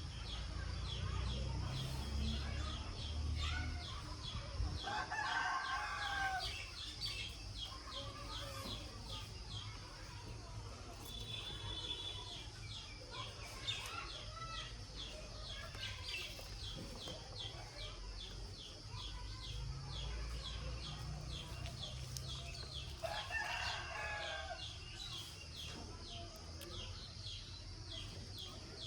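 A rooster crowing twice, about five seconds in and again near the end, over a fast, even ticking in the background.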